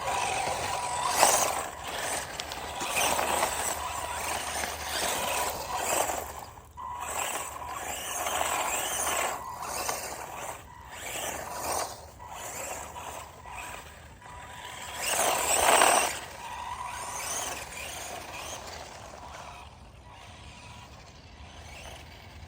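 Redcat Volcano 16, a 1/16 scale electric RC truck, being driven at speed: a thin electric motor whine with tyre noise that swells and fades as it speeds up, turns and passes, loudest about a second in and again around fifteen seconds in.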